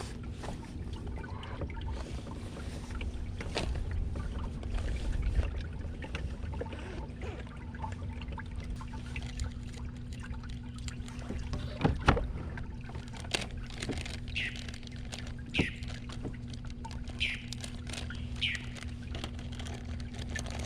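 A kayak under way on a lake: a steady low hum with a few sharp knocks against the hull. Several short, falling bird calls come in the second half.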